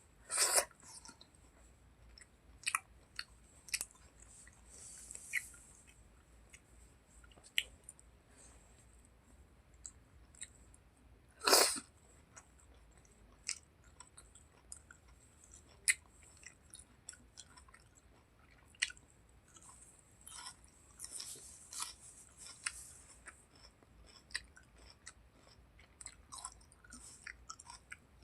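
Close-up mouth sounds of a person eating chicken skin curry with rice: wet chewing with scattered lip smacks and clicks, one louder smack near the middle.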